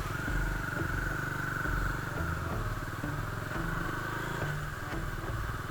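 Bajaj Dominar motorcycle running steadily while being ridden.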